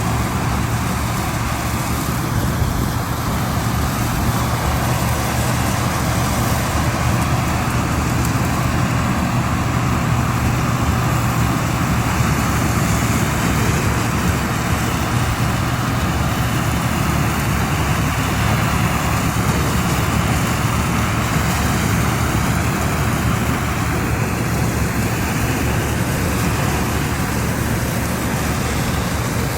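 Engine of a rice harvesting machine running steadily under load, a constant low drone with mechanical noise over it.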